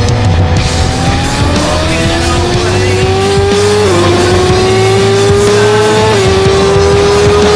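Onboard sound of a superbike's engine accelerating hard at high revs, its note climbing steadily and dropping sharply with an upshift about four seconds in and again about six seconds in.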